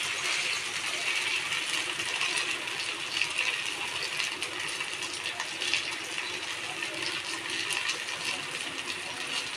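Corn cheela batter sizzling in oil on an iron tawa: a steady crackling hiss with many small pops.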